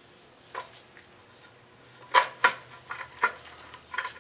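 Hand tools clinking against metal: a handful of sharp, ringing clinks after a quiet start, the loudest two close together about two seconds in.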